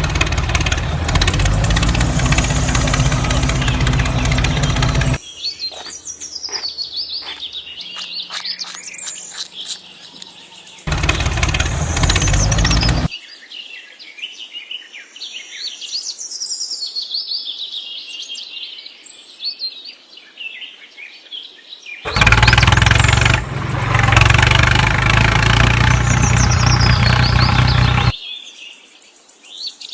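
Birds chirping and singing, repeated quick calls and short whistled phrases, broken at times by loud, dense spells of another steady sound.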